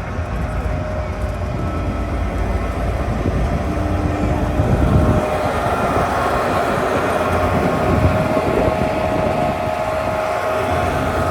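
Narrow-gauge tourist train running along the track, a steady rumble of wheels and cars. A steady high tone grows louder from about halfway through.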